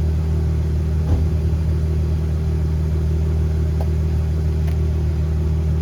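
Ram 1500's 3.6-litre Pentastar V6 idling steadily through a factory Hemi dual exhaust with its stock resonators and mufflers, giving a low rumble.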